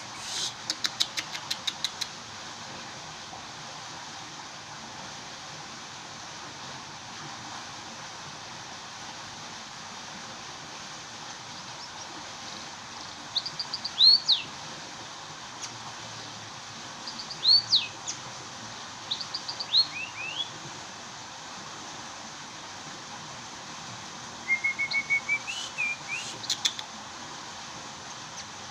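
Emprit (munia) calling in scattered bursts: thin high chirps that sweep downward come in small groups, and a quick run of short, even notes follows near the end. A fast rattle of clicks comes about a second in, over a steady background hiss.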